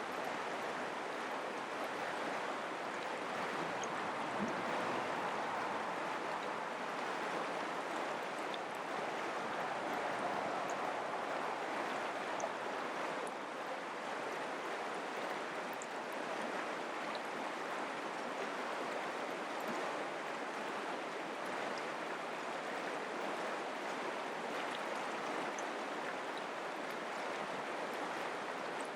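Mountain creek water flowing, a steady, even rushing.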